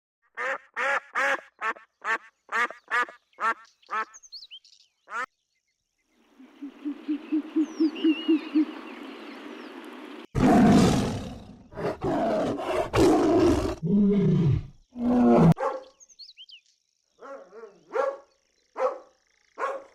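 A run of different animal calls one after another. First comes a quick series of about ten short pitched calls. Then a stretch of hiss with a pulsing low trill and a few high chirps, then loud, deep calls, and a few short calls near the end.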